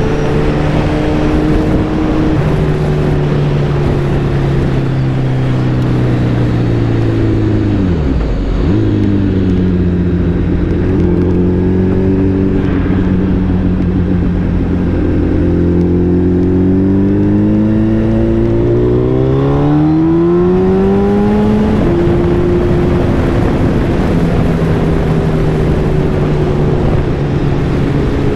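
Suzuki Hayabusa's inline-four engine running under way over steady wind noise. The revs dip sharply about eight seconds in, then climb steadily from about fifteen seconds to twenty-one and drop a step as it shifts up.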